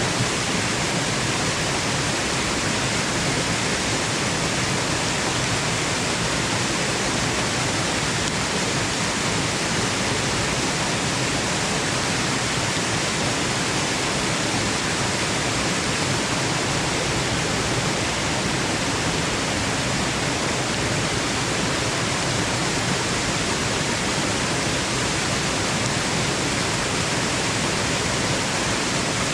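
Waterfall rushing, a steady even roar of falling water with no change or break.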